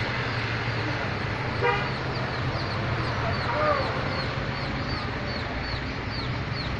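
Steady outdoor background noise with a low hum underneath and short high chirps repeating about three times a second. One brief pitched toot about one and a half seconds in.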